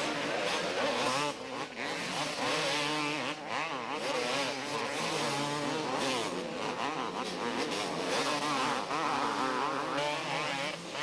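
Several two-stroke 250cc motocross bikes racing, their engines revving up and down with pitches rising and falling over one another.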